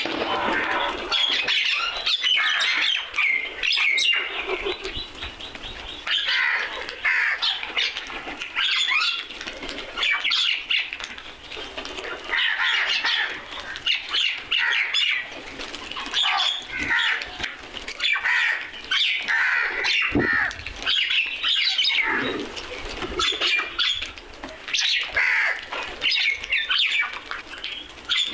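Crows cawing, several calls overlapping and repeating every second or two.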